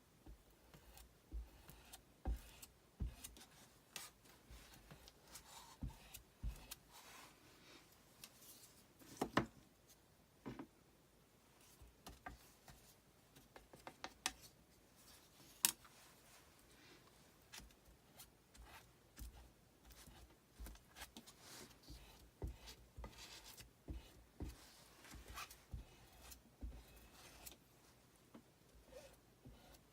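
Faint, irregular taps, clicks and light scraping of hands working with Chalk Couture craft supplies on a tabletop, a few sharper clicks standing out.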